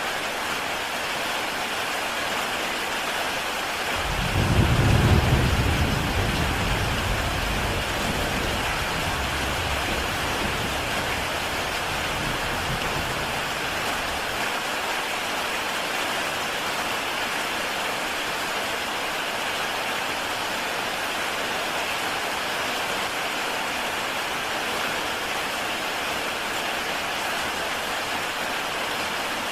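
Heavy rain falling steadily on a tile roof. About four seconds in, a roll of thunder rumbles in, loudest a second later, and dies away over the next ten seconds.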